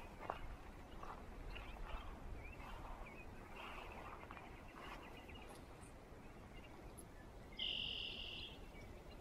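Faint bird chirps scattered in the background. About three-quarters of the way in comes one louder, steady high-pitched tone lasting about a second.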